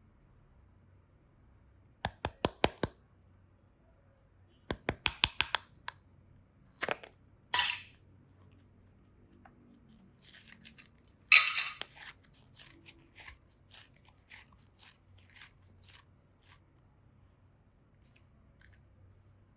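Modelling clay and slime being worked by hand: two quick runs of sharp clicks, then a pair of crackling snaps. A loud crackle comes about halfway through and trails off into a string of small ticks.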